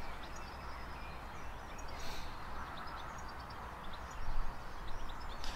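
Outdoor background: a steady low hiss with faint, high, short bird chirps scattered through it, and a brief rustle about two seconds in.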